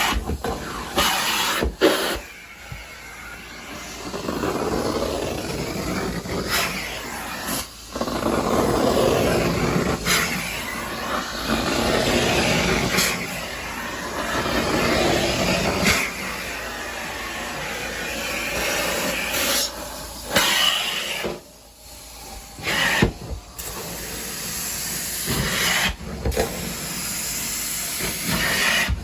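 Carpet cleaning extraction wand hissing as it sprays hot water and sucks it back up, worked in repeated strokes a few seconds long with short breaks between them.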